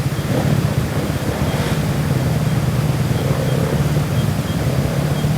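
Enduro motorcycle engine running at a steady idle, with a steady rushing noise over it.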